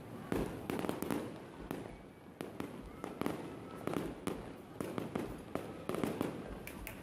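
Fireworks display going off: an irregular series of bangs, about one or two a second, with crackling between them.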